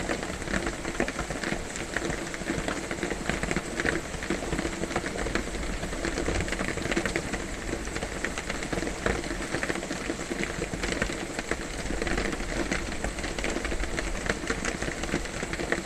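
Heavy rain drumming steadily on a metal cabin roof, a dense patter of countless drops.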